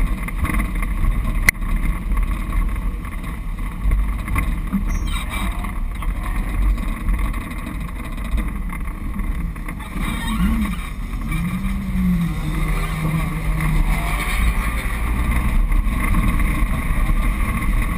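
Car engine running with wind buffeting the microphone of a hood-mounted camera as the car drives, and a sharp click about a second and a half in.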